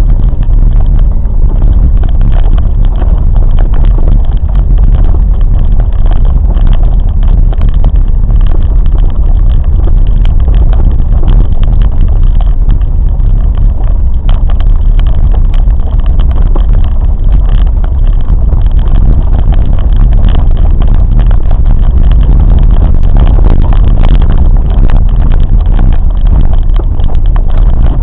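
Loud, steady low rumble of a moving vehicle, unbroken throughout.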